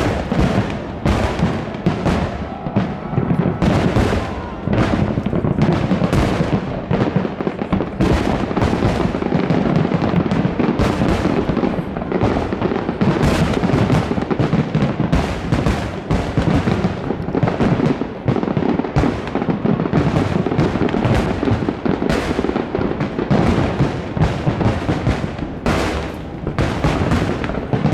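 Fireworks display in full swing: a dense, unbroken barrage of overlapping bangs and crackles.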